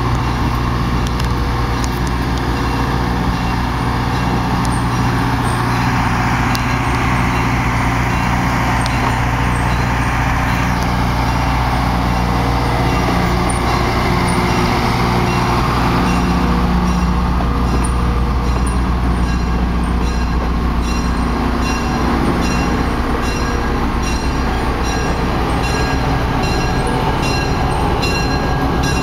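A passing train: the steady running of a diesel locomotive's engine together with the rumble of the caboose and passenger cars rolling on the rails. In the second half, the wheels click regularly over the rail joints.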